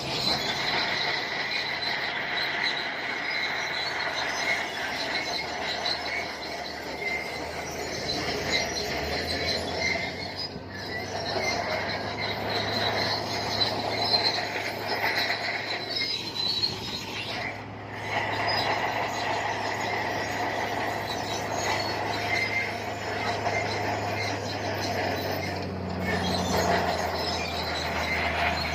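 Shantui crawler bulldozer's steel tracks squealing as it moves, a continuous high metallic screech that breaks off briefly a few times. The diesel engine's low hum runs under it, stronger from about nine seconds in.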